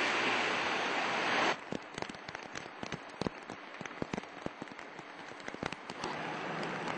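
Heavy rain as a dense, steady hiss that cuts off suddenly about one and a half seconds in. A scattered patter of separate raindrops striking a surface follows. Near the end a steady rushing hiss returns, with a low hum under it.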